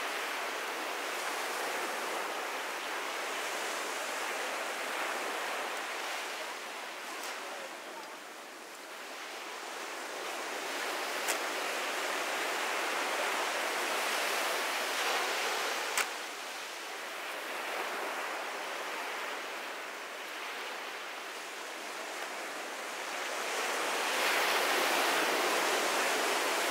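Ocean surf breaking and washing up on a sandy beach, the rush of the waves swelling and easing every several seconds. Two brief clicks stand out, one about halfway through and one a few seconds later.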